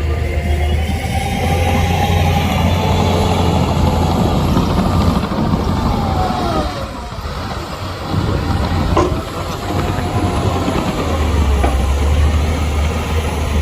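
Heavy diesel earthmoving machinery running, with a deep steady drone under whining tones that rise and fall as the engines work. The drone eases off briefly about halfway through, then comes back.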